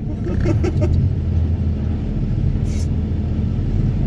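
Excavator and its vibro hammer running during sheet-pile extraction: a heavy, steady low rumble. A few clanks come in the first second, and a brief hiss follows near three seconds in.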